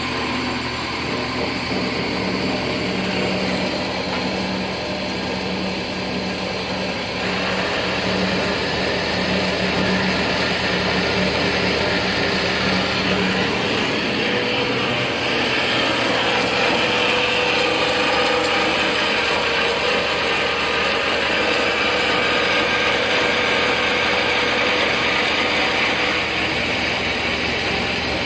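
Ellis Model 1800 miter band saw, driven by its 1 HP single-phase motor, running steadily with its head on hydraulic down feed. The sound grows brighter and louder about a quarter of the way in and again about halfway.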